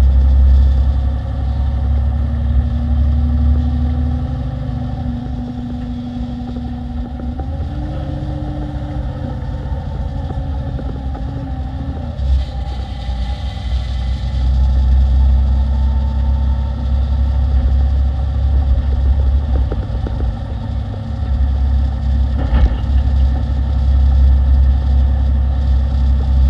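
Diesel engine of a 2016 Peterbilt 348 plow truck running steadily, its pitch rising for a few seconds about eight seconds in, with a sharp click near the end.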